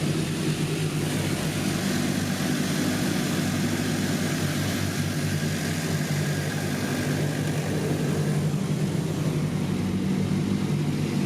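Steady low hum of a car's engine and machinery, heard from inside the cabin, with a constant hiss of noise over it.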